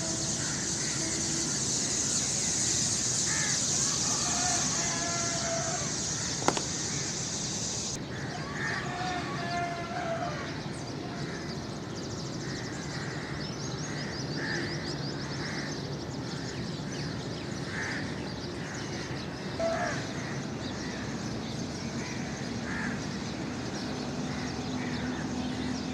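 Crows cawing again and again, short calls every second or two. Under them, a steady high hiss stops abruptly about eight seconds in.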